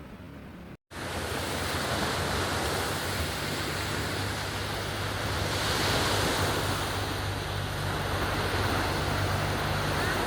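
Sea surf washing on the shore with wind buffeting the microphone: a steady, loud rush, starting abruptly about a second in after a brief dropout.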